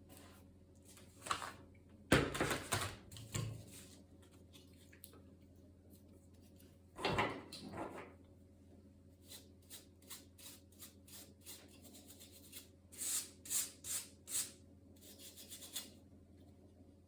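Laptop parts handled and rubbed by hand: several scraping, rubbing sounds, then a quick run of small clicks and four short hissy strokes near the end.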